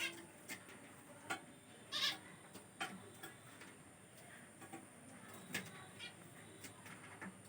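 Sun conure giving a scatter of short chirps and calls, the loudest about two seconds in.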